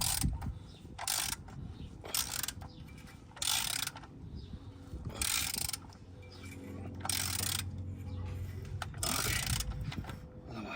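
Ratchet wrench clicking in about seven short bursts, a second or two apart, as it backs off the oil filter housing cap.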